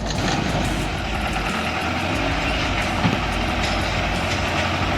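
Heavy truck engine running steadily, with a dense mechanical rumble and a low hum.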